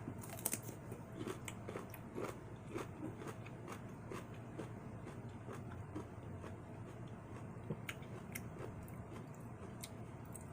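Close-miked eating: faint, scattered chewing and biting, with small crunches and wet mouth clicks.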